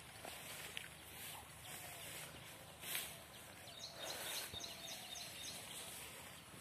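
Quiet outdoor background noise with a bird chirping a quick run of short high notes a little past the middle. There is a brief rustle about three seconds in.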